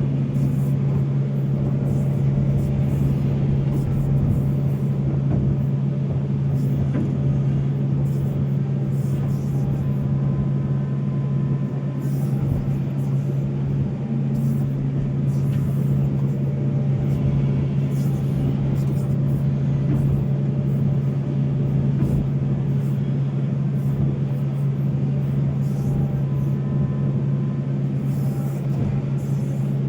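Volvo excavator's diesel engine running steadily under work, a constant low drone with faint clicks and knocks over it.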